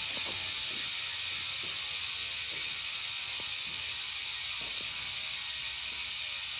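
Bontrager Aeolus Pro 5 rear hub freewheeling as the wheel spins on its own. The freehub ratchet pawls click so fast that they blur into a steady, even buzz.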